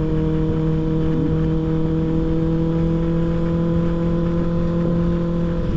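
Kawasaki ZX-6R 636's inline-four engine running at a steady speed under way, with a low rush of wind underneath.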